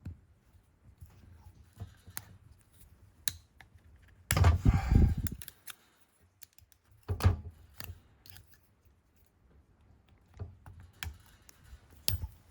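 Small metal hand tools clicking and scraping against the engine's piston pin, which is stuck fast. There is a louder rasping burst about four seconds in that lasts about a second, and a shorter one about seven seconds in.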